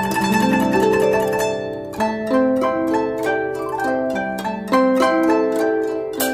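Background music of plucked string notes played in quick succession, each note ringing and fading.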